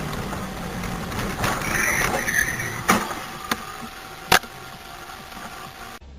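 Steady vehicle road noise with sharp knocks: the loudest come about three and about four and a half seconds in.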